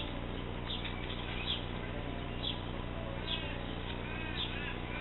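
Songbird chirping, short high chirps repeated about once or twice a second, over a steady low hum.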